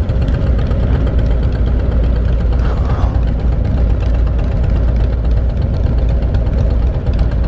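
V-twin motorcycle engine running steadily, a strong low drone that holds even throughout.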